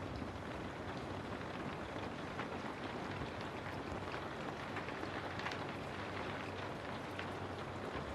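Steady rain falling, with many separate drops ticking on a surface over an even patter.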